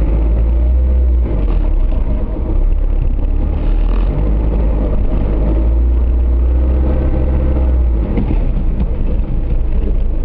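Suzuki Jimny's engine running under load off-road, its pitch rising and falling with the throttle, over a continuous deep rumble.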